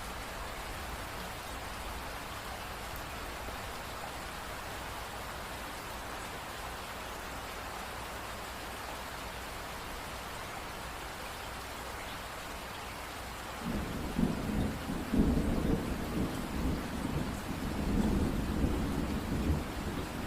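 Steady rain falling, an even hiss. About two-thirds of the way through, a low rolling rumble of thunder sets in suddenly and keeps rumbling unevenly, louder than the rain.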